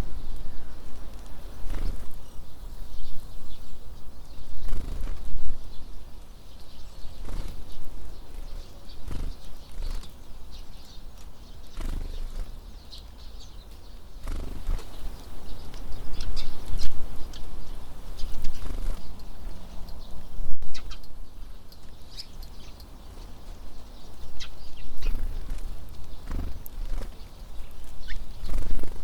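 Wind buffeting the microphone in uneven gusts, with birds at a feeder: short knocks and wing flutters, and a few brief high calls.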